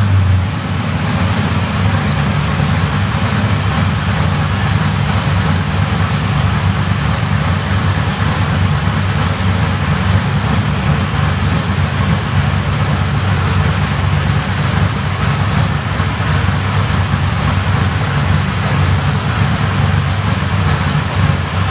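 Holden Torana A9X's V8 engine running steadily at idle on its first start after the build, easing to a slightly different note about half a second in.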